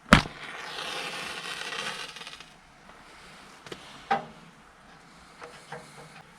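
A sharp metallic clink, followed by about two seconds of hissing that fades out, then a few lighter clinks.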